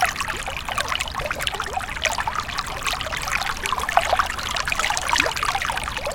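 Water trickling steadily, a dense patter of small splashes and gurgles.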